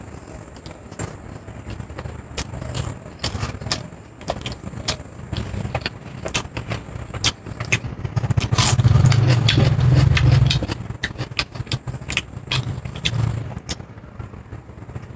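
Close-miked eating sounds: chewing with many sharp mouth clicks and smacks and a low rumble of chewing that grows loudest for a couple of seconds past the middle.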